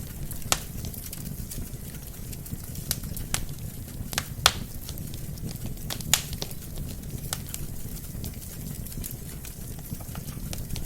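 Wood fire burning: a steady low rumble of flames with irregular sharp crackles and pops of the burning logs, the loudest pops about four and a half and six seconds in.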